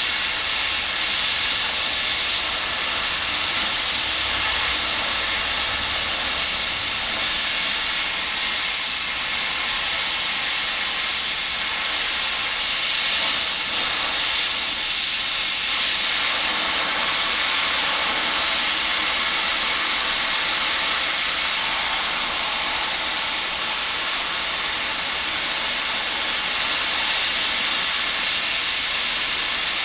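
Electric welding arc hissing steadily as a bead is run on steel.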